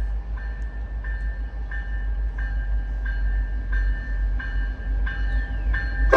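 Diesel locomotives of the work train, MBTA GP40MC-3s, rumbling deeply, with a bell ringing steadily at about one and a half strikes a second.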